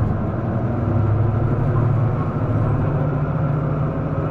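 Diesel engine of an Isuzu Erga city bus heard from inside the cabin while the bus is under way. It makes a steady drone whose pitch rises slightly about a second and a half in, then holds.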